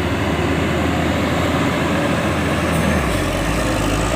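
Truck engine running steadily under a dense wash of noise; its low hum shifts lower about three seconds in.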